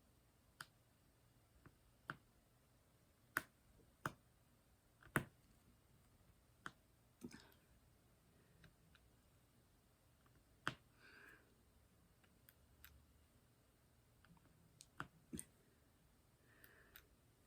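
Light, sharp clicks at irregular intervals, about a dozen in all, from a diamond-painting drill pen picking up resin drills and tapping them onto the canvas, with near silence between them.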